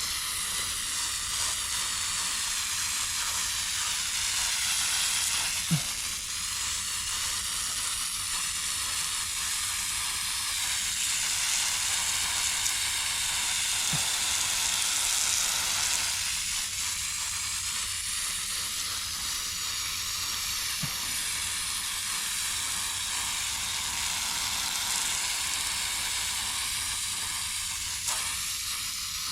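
Heavy-duty coil cleaner fizzing and crackling steadily as it foams on a dirty HVAC evaporator coil, with a couple of faint ticks.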